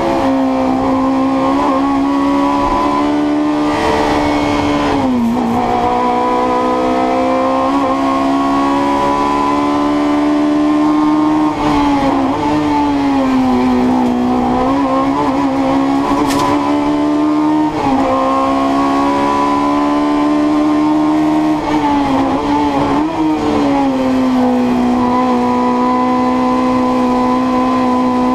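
Fiat 128 Coupé's four-cylinder engine run hard in competition, heard from inside the cabin, holding high revs with its note dipping briefly and climbing again several times as the throttle is lifted for the bends.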